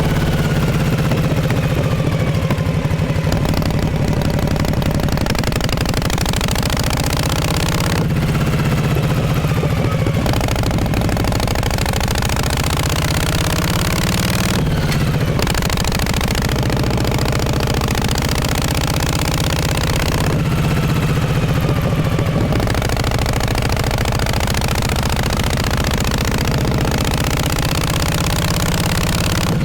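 1948 Harley-Davidson Panhead V-twin running, its exhaust note steady but with engine speed rising and falling several times.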